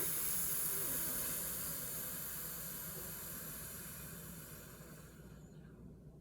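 A woman's long exhale through the teeth on an "F" sound: a steady high hiss that fades out over about five seconds.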